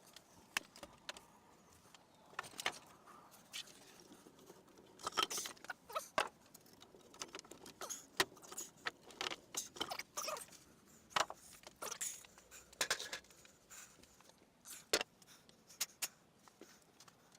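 Irregular light clicks and short clatters of small hard objects being handled, coming in loose clusters.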